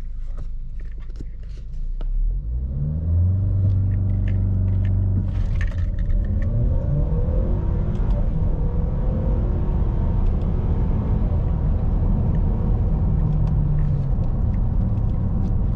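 Ford Escape's 2.0L EcoBoost turbocharged four-cylinder launching hard from a standstill. After a couple of seconds of low rumble the engine note climbs in pitch, then drops back and climbs again at each upshift, about twice, before settling into a steady pull, heard from inside the cabin.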